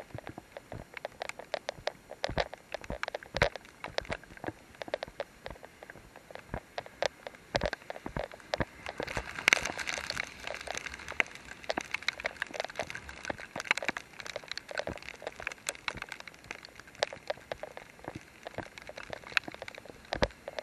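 Rain pattering on a surface: many irregular sharp drips and ticks with no steady rhythm, thickest and loudest around the middle.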